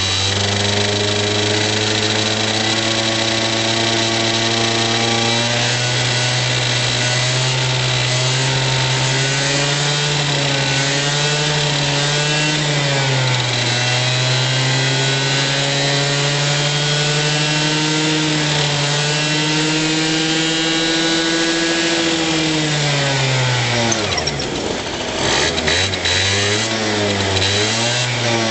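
Honda Gyro Up's small two-stroke scooter engine running just after starting, its speed drifting gently up and down. About three-quarters of the way through the revs sag steeply almost to a stall, then pick up again in a few quick throttle blips.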